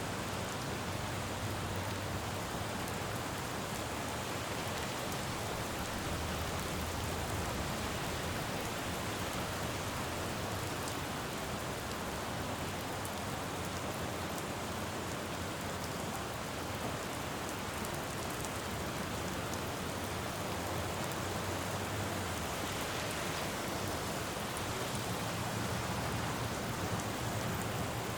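Steady rain falling on a city road, with a low rumble of passing traffic that swells and fades several times.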